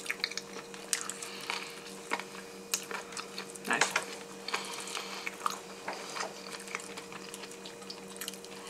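Close-miked chewing, biting and lip smacks of two people eating chicken off the bone with their fingers: irregular small clicks and smacks, over a steady low hum.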